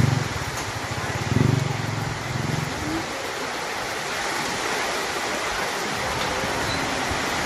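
Heavy storm rain pouring steadily, with a low rumble under it for the first three seconds.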